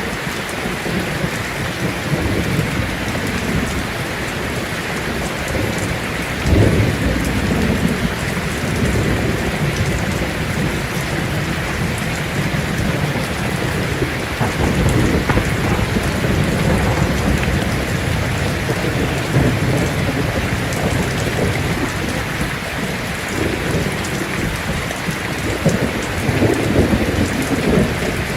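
Heavy rain falling steadily on a tin roof, with thunder rumbling under it: a sudden crack about six seconds in, then longer rolling rumbles in the middle and near the end.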